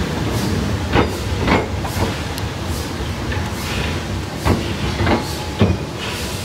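Narrow-gauge train rolling along the track: a steady running rumble with the wheels clacking over rail joints, the knocks often coming in pairs about half a second apart.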